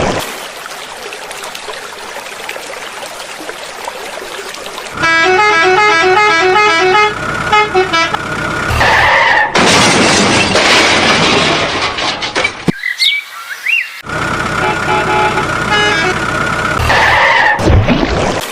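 Vehicle sound effects: a steady rushing noise, then a horn playing a quick tune of short stepped notes about five seconds in, followed by more rushing noise and further horn tones near the end.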